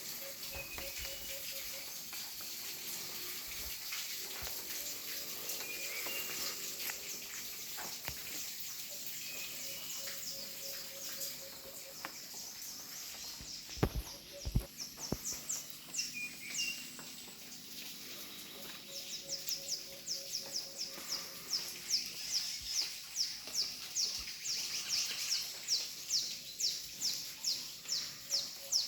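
Birds calling in the open. In the last third, short high chirps repeat rapidly, about twice a second, over a steady high hiss. A couple of sharp knocks come about halfway.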